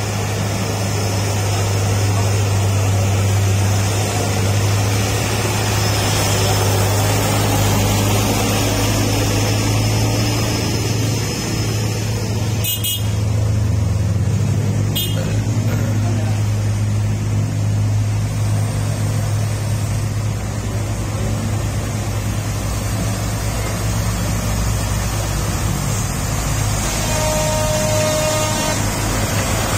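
Heavy truck's diesel engine running with a steady low drone amid road noise. A horn toots briefly near the end.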